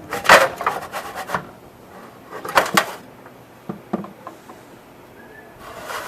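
Knocks, clatter and scraping of metal parts being handled on a reach-in cooler's condensing unit: several short bangs in the first three seconds, a few sharp clicks about four seconds in, and a longer scraping rush near the end.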